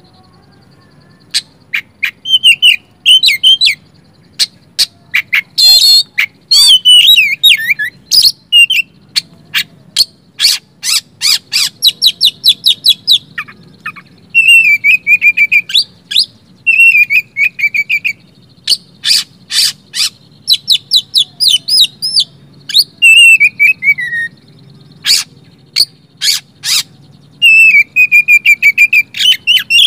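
Oriental magpie-robin (kacer) singing a loud, varied song of short phrases: rapid runs of repeated sharp notes, downward-sliding whistles and quick warbles, separated by brief pauses.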